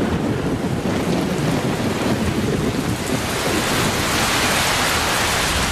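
Heavy tropical rain pouring down, with thunder rumbling low in the first half. About halfway through, the hiss of the downpour grows denser.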